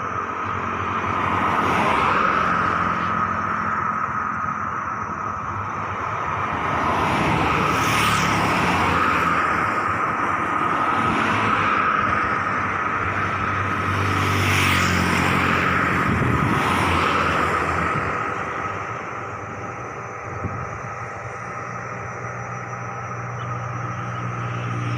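Turbine aircraft engine running with a steady high whine over a low drone, swelling louder several times and easing off near the end.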